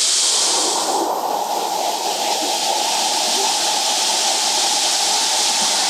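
A jungle waterfall rushing steadily and loudly. About a second in, the sound turns less hissy and lower.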